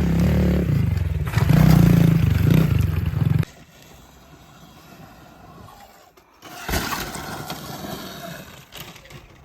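Small dirt-bike engine running loud and close for about three and a half seconds, then cutting off abruptly, followed by quieter outdoor noise with a brief rush near seven seconds.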